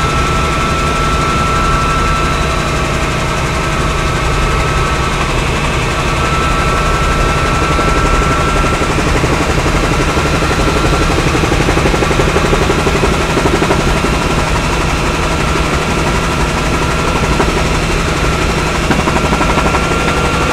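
Helicopter in flight heard from on board: a steady, loud rapid rotor beat over the engine drone, with a thin steady whine.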